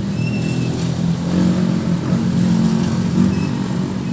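Audio signal tracer's speaker reproducing the injected test signal taken from a pin of a preamp op-amp: a low buzzing tone that wavers and crackles. The unsteady signal is the sign of a faulty op-amp.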